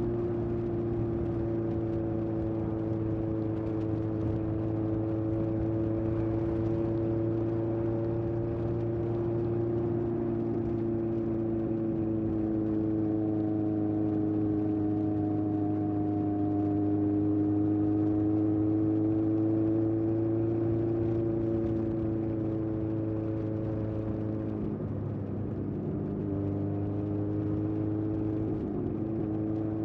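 Honda CB750F's air-cooled inline-four running through a period Yoshimura exhaust while riding at a fairly steady engine speed, its pitch drifting slowly. The engine note drops right at the start and dips briefly about 25 seconds in before picking up again.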